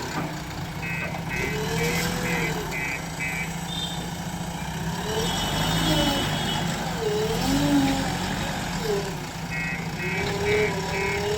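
Heavy diesel engine of earth-moving machinery running, its pitch rising and falling as it works, with a reversing alarm beeping. There are about six beeps in a bit over two seconds near the start, and the alarm starts again near the end.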